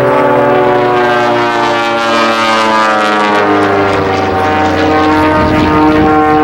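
A propeller airplane's engine running loud, its pitch sliding steadily down over the first few seconds and then holding level.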